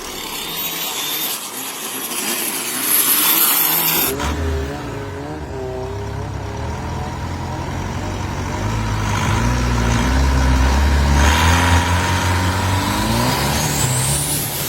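A loud rushing noise for the first few seconds cuts off abruptly. Then a high-performance boat engine runs and revs, its pitch climbing near the end.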